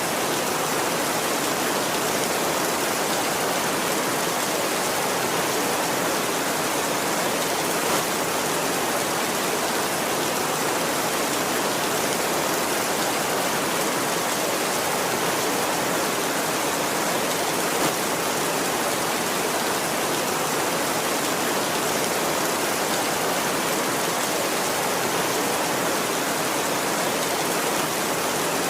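Heavy rain drumming steadily on a tin roof, a dense, even hiss of drops with no let-up.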